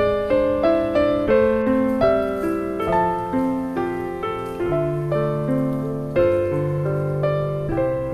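Background piano music: a gentle melody of single notes over sustained chords, each note starting clearly and fading.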